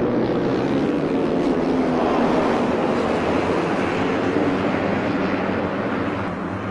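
MotoGP racing motorcycle engines running hard on track, their pitch drifting up and down as bikes pass, over a steady rush of noise.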